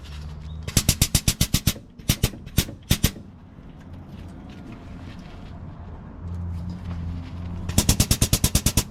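Two bursts of rapid, sharp rattling clicks, about ten a second, one about a second in and one near the end, with a handful of single clicks between them.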